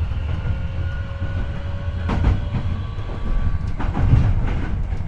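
Hankyu 8300 series train running, heard from car 8900's floor over its bogie. There is a deep wheel-and-track rumble, wheel clacks over rail joints about two and four seconds in, and thin steady tones from the Toyo IGBT-VVVF induction motors, one slowly rising in pitch.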